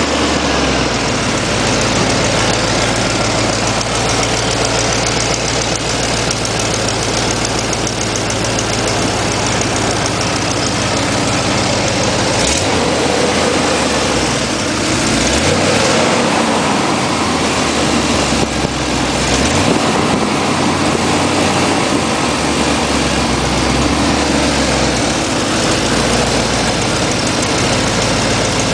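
1989 Dodge Ramcharger's 318 V8 idling steadily after a start, running smoothly; the idle speed shifts briefly a few times around the middle.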